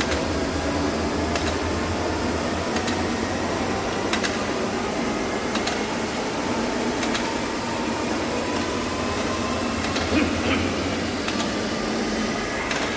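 Steady mechanical whirring with faint clicks about every one and a half seconds.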